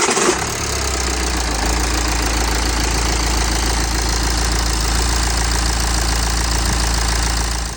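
BMW X1 E84's N47 four-cylinder diesel engine idling steadily with a diesel clatter, during an idling session after an oil change while the oil is being topped up.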